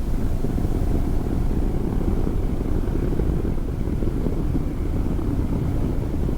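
Motorcycle riding at a steady speed: the engine running evenly under a constant low rush of wind over the microphone.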